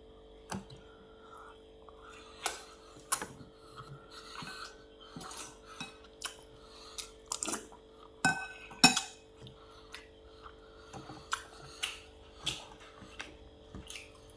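Cutlery clinking and scraping against a plate in irregular, sharp clicks while someone eats, the loudest clink near the middle, over a faint steady hum.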